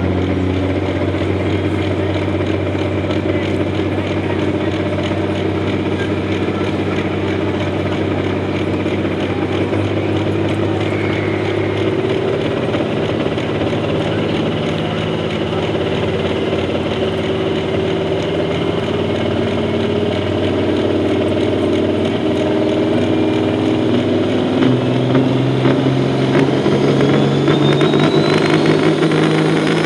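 Pro stock semi truck's diesel engine running hard under load during a pull, its pitch shifting in steps a couple of times. A thin high whine rises over the last several seconds as it gets a little louder.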